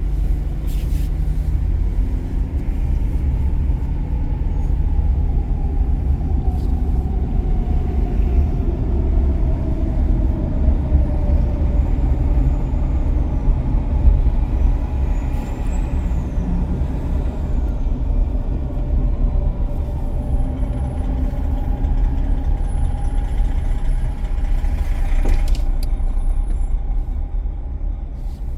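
Car driving on city roads: steady low rumble of road and engine noise, with an engine tone that slides down and then holds as the speed changes.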